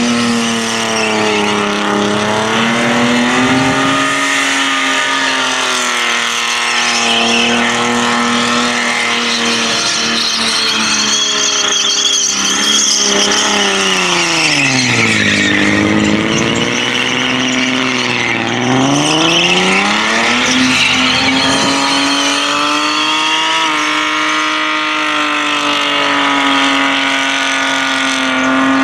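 Burnout car's engine held at high, steady revs while its rear tyres spin and screech in a smoking burnout. About halfway through, the revs drop sharply twice and climb straight back up.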